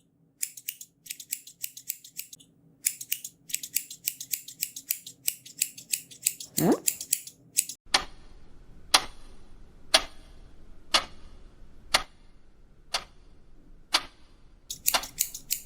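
Cartoon sound effects: rapid bursts of scissors snipping, broken by a short falling tone about two-thirds of the way through the snipping, then a clock ticking about once a second, and quick snipping again near the end.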